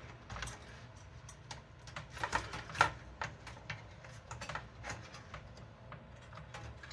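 Irregular light clicks and taps of computer parts being worked into a tight spot inside a PC case, with a sharper cluster of knocks around two to three seconds in.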